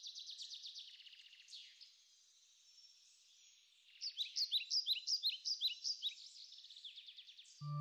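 Small songbirds chirping and trilling in high, rapid notes, quieter for a moment about two seconds in, then louder with quick repeated chirps from about four seconds in.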